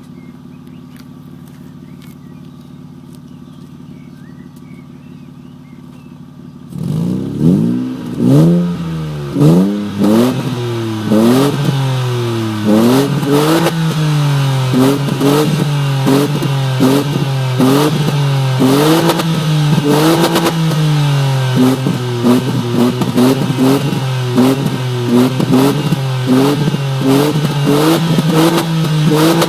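Opel Vectra B's 2.5-litre X25XE V6 exhaust, running steadily and quietly at first, then about seven seconds in it suddenly gets much louder and is revved over and over in short blips, each rising and falling back to idle.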